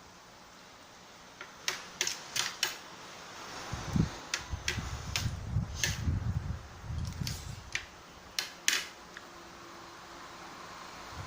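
Close-up eating sounds of sapsap and bisugo fish being bitten and chewed: about a dozen sharp, crunchy clicks, starting a couple of seconds in, over low muffled chewing.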